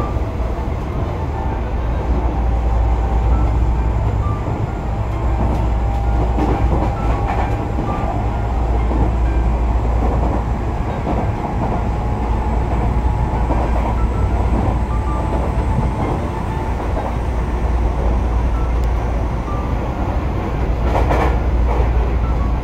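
Tobu Urban Park Line electric commuter train running at speed, heard from inside the carriage: a steady heavy rumble of wheels on the rails, with a short clack near the end.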